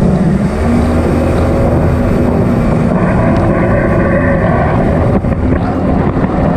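Jet ski engine running steadily at speed, a constant loud drone.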